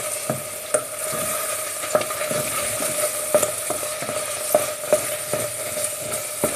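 Risotto stirred in a pan on the heat, cooking down to dry: a steady sizzle with irregular clicks and scrapes of the utensil against the pan.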